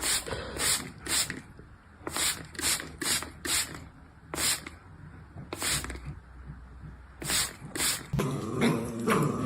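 A dog breathing out in a series of short, sharp, noisy huffs, a dozen or so at uneven intervals. Near the end a wavering, voice-like sound starts up.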